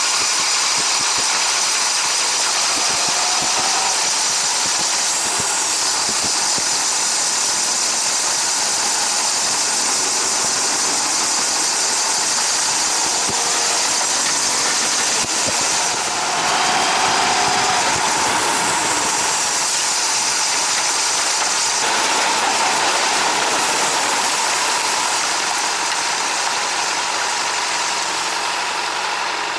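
Honda CBR600RR ridden on the road, heard through a helmet-mounted action camera: a constant rushing hiss with the engine running underneath, and a steady whining tone that swells louder about 16 seconds in. It is the abnormal front-brake noise under braking, which the owner puts down to the disc pads rather than pad wear.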